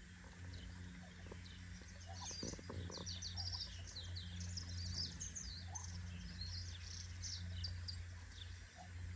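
Small birds chirping and twittering in quick, high runs of short notes, over a steady low hum.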